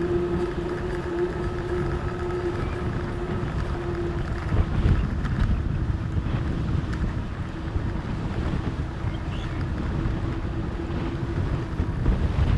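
Wind buffeting the microphone while riding a fat bike, over the rolling noise of 4.4-inch Schwalbe Jumbo Jim tyres. A steady hum runs under the rumble and fades out near the end, where a few sharp ticks follow.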